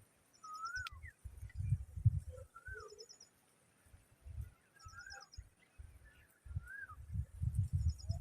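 A bird calling with short whistled notes that rise and then drop, repeated every second or two, along with quick little series of high ticks. Irregular bursts of low rumble run underneath and are louder than the calls.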